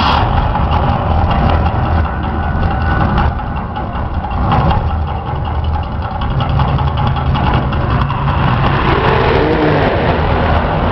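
The Mirage Hotel's artificial volcano erupting: a loud, low rumble that starts suddenly and runs on steadily, with a few higher gliding tones near the end.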